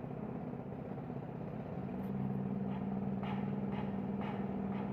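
A motor vehicle's engine running with a steady low hum, growing louder about two seconds in.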